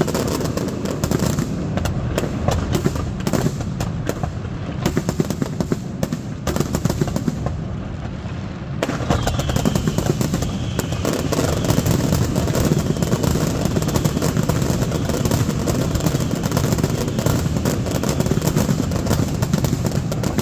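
Fireworks display: a rapid, continuous barrage of bangs and crackles over a deep rumble, growing denser and louder about nine seconds in, with a few faint falling whistles.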